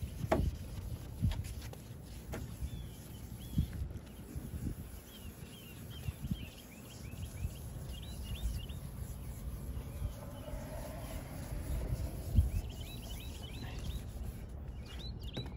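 Birds chirping in quick runs of short, high calls, over a low rumble with scattered soft knocks.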